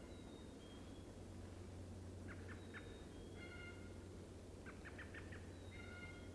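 Wild birds calling faintly: two runs of quick clipped notes, each followed by a few longer notes, with thin high whistles in between.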